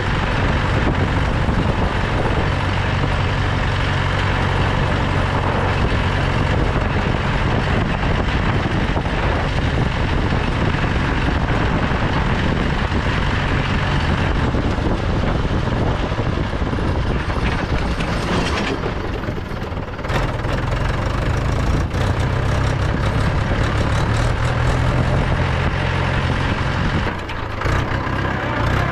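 Mahindra 475 DI tractor's 2730 cc four-cylinder diesel engine running steadily while driving, with rattle and road noise over it. About two-thirds of the way through the sound dips briefly, then the engine picks up again.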